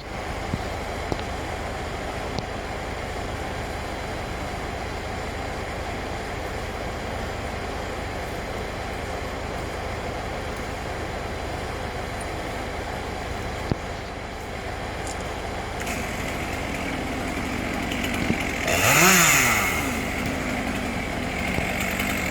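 Engine running steadily, with one brief rev near the end that rises and falls in pitch.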